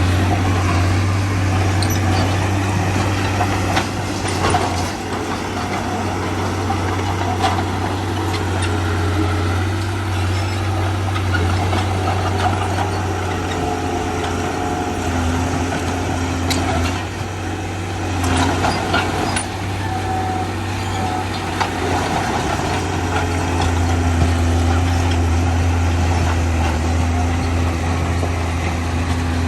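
Heavy diesel construction machinery running steadily, a deep engine drone, with a few scattered metallic knocks.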